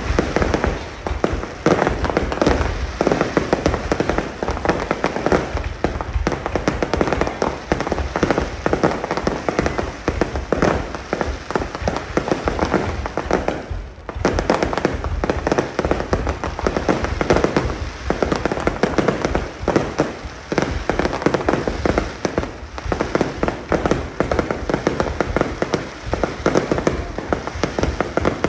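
Fireworks display: a dense, continuous barrage of aerial shell bursts and crackling, with a brief lull about halfway through.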